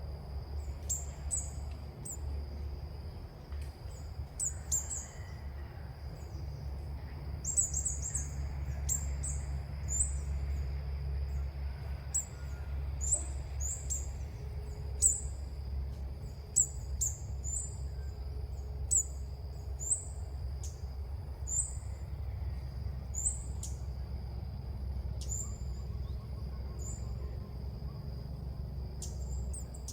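Small birds chirping outdoors: many short, high-pitched chirps repeated irregularly, over a thin steady high tone and a low steady rumble.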